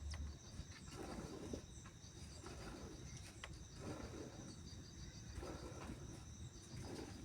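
Crickets chirping steadily in a fast, high pulsing trill, with soft swishing sounds coming and going about once a second underneath.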